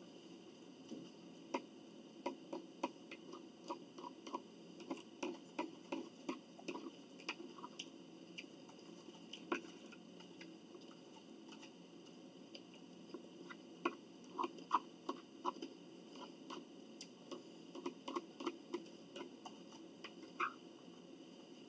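Chewing food at close range, a meal of chicken noodle soup and salad: irregular runs of small clicks and smacks, with a short pause in the middle.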